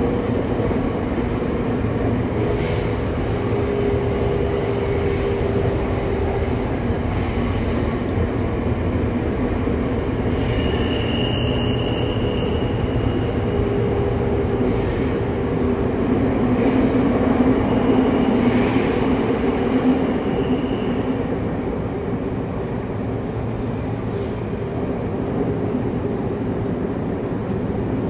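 Saitama Railway 2000 series train running through a subway tunnel, heard inside the car: a steady rumble of wheels and motors on the rails. Twice in the middle comes a brief high-pitched wheel squeal.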